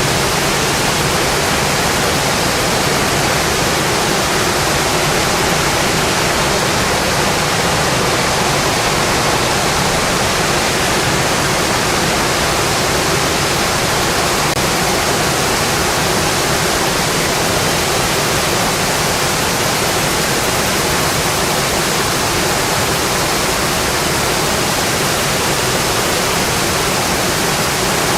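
Heavy, steady rain drumming on a metal roof, a dense unbroken hiss.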